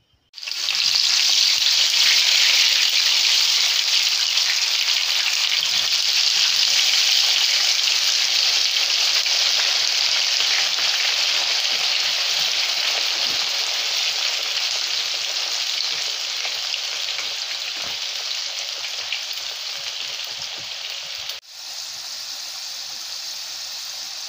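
Seasoned yam sticks deep-frying in hot vegetable oil in a frying pan: a loud, dense sizzle that starts suddenly about half a second in and slowly eases. There is a sharp break near the end, after which it carries on more quietly.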